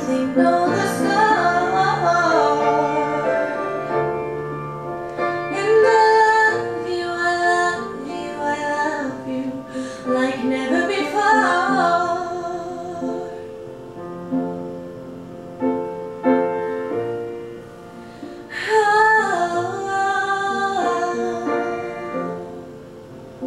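Recorded pop ballad: a female voice sings held, wavering notes over piano accompaniment, with a few seconds of piano alone in the middle before the voice comes back.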